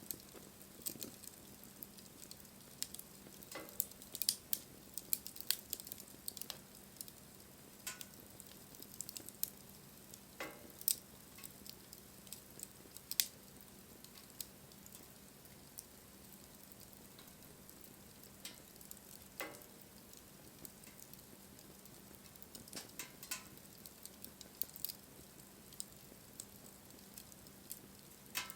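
Wood campfire crackling: irregular sharp pops and snaps over a low steady hiss of burning wood.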